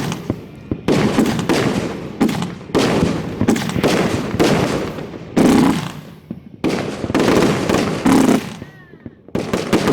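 Fireworks going off at close range in a dense barrage: loud booms several times a second with crackling between, easing briefly about two thirds of the way in before picking up again.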